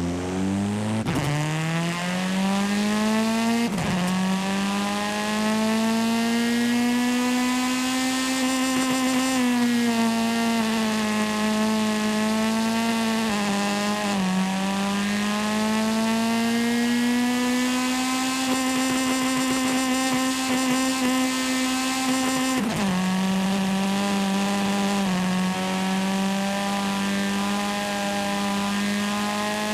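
Car engine sound in a driving video game, held at high revs and running through the gears. Its pitch creeps up and then drops sharply at each gear change: about a second in, near four seconds, mid-way, and again near the end.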